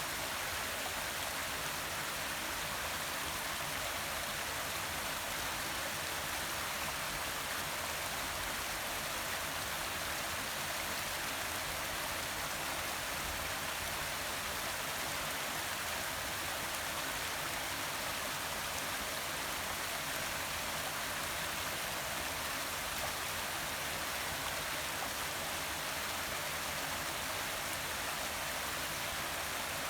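Forest waterfall: water falling and splashing with a steady, even rush.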